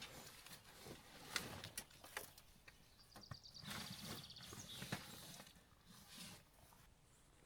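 Quiet forest ambience with a few sharp knocks and a short, fast high trill from a bird about three seconds in.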